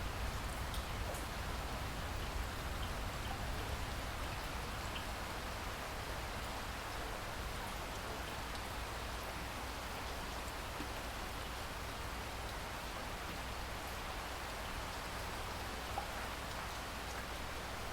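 Steady rain falling, an even hiss with a low rumble underneath and a few individual drops ticking now and then.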